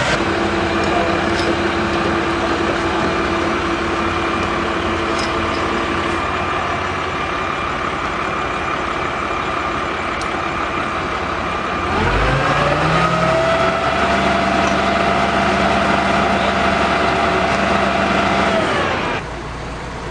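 A heavy vehicle engine idling, then revving up about twelve seconds in and held at high revs for several seconds before dropping back off.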